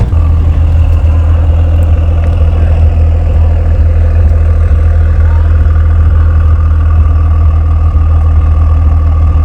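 A car engine idling loudly and steadily: a low, even drone with no revving.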